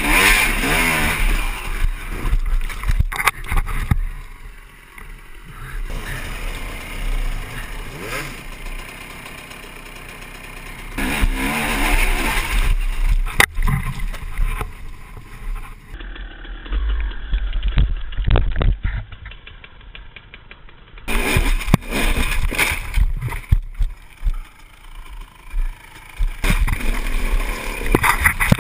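Dirt bike engines revving up and dropping back in bursts, with a few sharp knocks, across several short clips.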